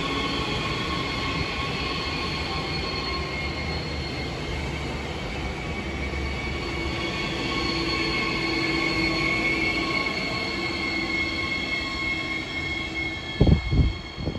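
Siemens Desiro HC (class 462) double-deck electric multiple unit moving slowly past at low speed: a low rumble with several steady high squealing tones that drift slightly in pitch. A short, loud low thump comes near the end.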